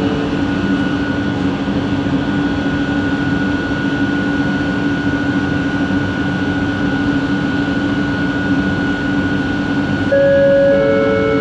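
Original Kelana Jaya Line Bombardier ART Mark II light-metro train running, heard from inside the carriage: a steady rumble with a constant motor whine, the motor noise this original-equipment set is known for. About ten seconds in, a repeating pattern of higher stepped tones starts.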